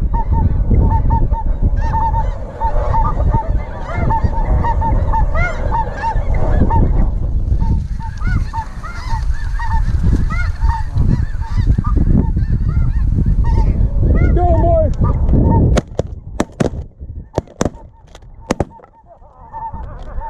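A large flock of snow geese honking, many birds calling over one another, over a heavy low rumble of wind on the microphone. Near the end the rumble drops away and a quick run of sharp cracks follows.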